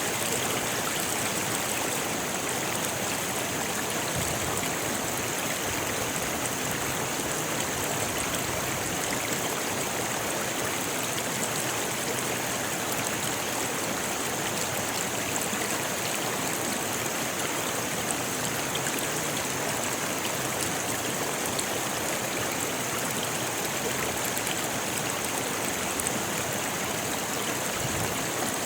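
A rocky river flowing steadily over stones, an even, unbroken sound of running water.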